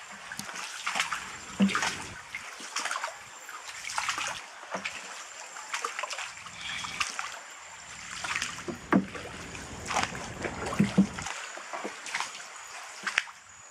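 Paddles of a small hand-paddled boat dipping and splashing in the water, repeated strokes at an uneven pace of roughly one a second.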